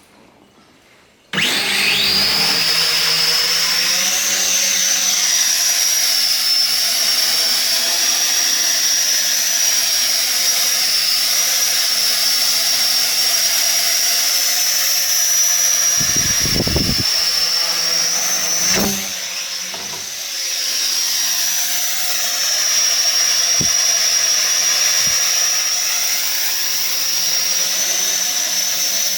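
Sky Viper v950 quadcopter's electric motors and propellers spin up suddenly about a second in. The whine climbs in pitch as the drone lifts off, then holds steady and high as it hovers. The whine dips briefly about two-thirds of the way through, and a few low knocks sound along the way.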